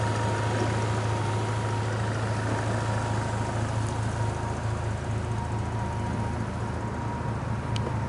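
Bentley Continental GT's 6.0-litre twin-turbo W12 engine idling steadily.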